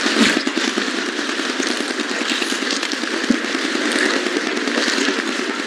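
Rain falling close to the microphone: a dense, steady crackle of drops, with a couple of louder knocks.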